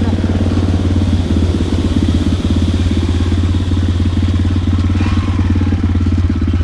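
Two-stroke dirt bike engine running steadily at low revs, its pulsing exhaust note holding an even pitch.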